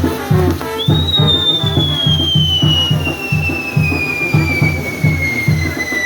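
Band music with a steady bass beat, over which a whistling firework starts about a second in and holds one long whistle that slowly falls in pitch.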